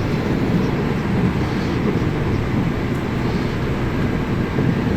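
Passenger train carriage under way, heard from inside: a steady low rumble of the running train with no sharp events.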